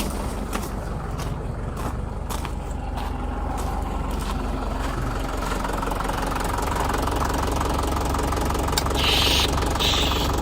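Lovol 504 tractor's diesel engine idling steadily, still cold just after a cold start. Near the end, two short hisses from an aerosol de-icer spray.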